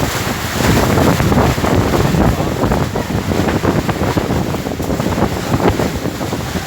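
Strong gusting wind buffeting the microphone in a heavy rainstorm, a loud, continuous roar of wind and rain that swells for a couple of seconds near the start.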